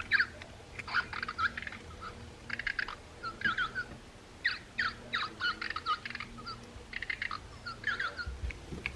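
Recorded purple martin calls played from the sound box of a Wild Republic plush bird: a string of short chirps and warbled, down-sweeping notes through a small speaker, repeating through the whole stretch.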